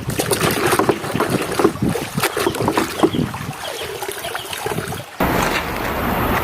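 Water splashing with plastic toys knocking and rattling as muddy toy planes are washed. About five seconds in, it switches suddenly to a steady rushing noise.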